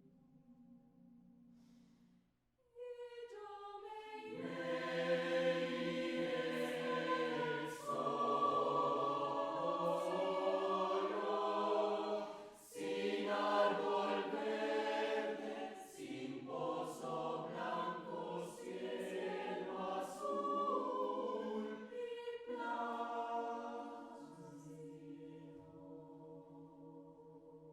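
A vocal ensemble singing in harmony. The voices enter again after a brief pause, swell to a full, loud passage with a short break in the middle, then soften into a quiet held chord near the end.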